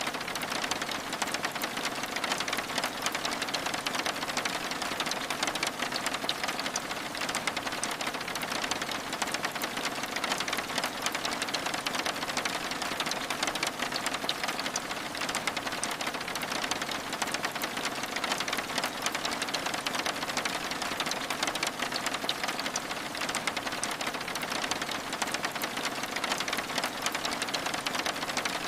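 Steady rain pattering on window glass: dense, fine drop ticks over an even hiss, with no change in strength.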